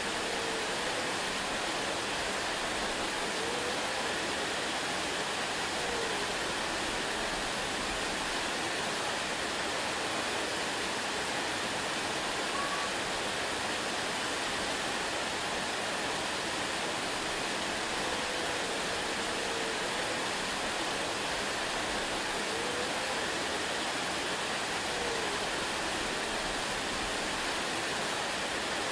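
Waterfall: a steady, unbroken rush of falling water, an even hiss with no change in level.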